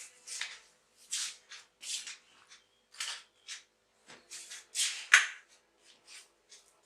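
Caged goldfinches moving about: short, irregular scratchy rustles, about one or two a second, with the loudest about five seconds in.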